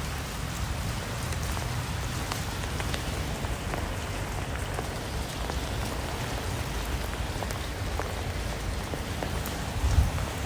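Steady rain falling, an even hiss with scattered separate drops ticking through it.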